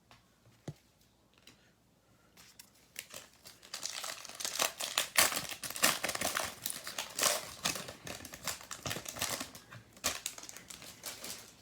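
Plastic foil wrapper of a Panini Chronicles basketball card pack being torn open and crinkled, starting about three seconds in and running as a dense crackle until just before the end.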